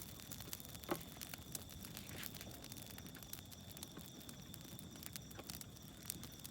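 Bonfire crackling, with irregular sharp pops and snaps over a soft even rush. Crickets chirp steadily behind it.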